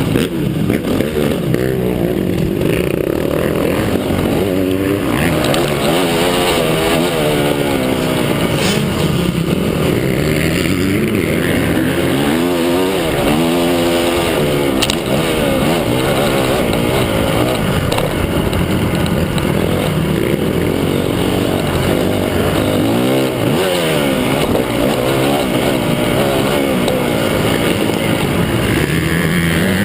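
Several motocross bikes running on a dirt track, their engines revving up and down in overlapping, crossing pitches as they accelerate and shift. The level is loud and steady throughout.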